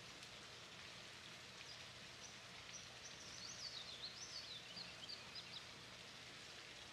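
Near silence: a faint steady hiss, with a bird faintly chirping in wavering high notes from about a second and a half in until near the end.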